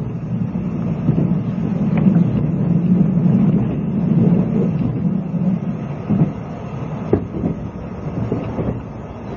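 Running noise inside a 20-series sleeper passenger coach: a steady low rumble of the train under way, with a few sharp clacks of wheels over rail joints in the second half.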